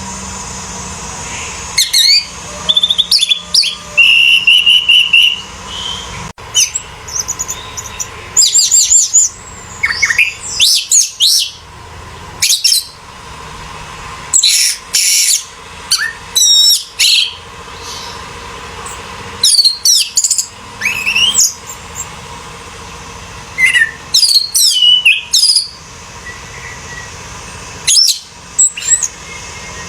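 Orange-headed thrush singing: a run of short, loud phrases of quick whistled slurs and fast trills, each lasting about a second, with brief pauses between them.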